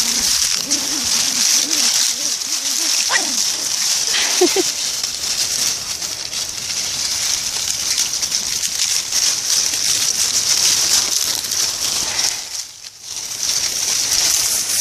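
Dry fallen leaves rustling and crackling as puppies run through them, with a steady high hiss behind. A couple of brief squeaky cries come in the first few seconds.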